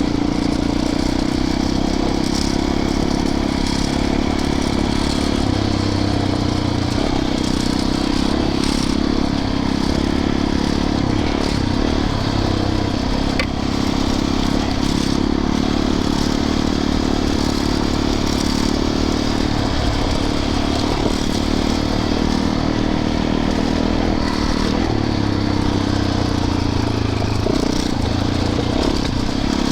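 Yamaha YZ450FX dirt bike's 450 cc single-cylinder four-stroke engine running steadily at trail pace. Its note holds fairly even, with small rises and falls as the throttle changes.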